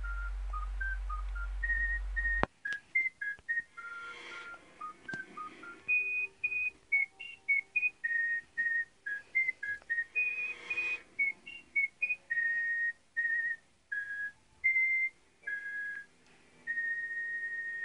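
A whistled melody: a run of clear, single notes stepping up and down in a tune, some short and some held. A low hum underneath cuts off about two and a half seconds in.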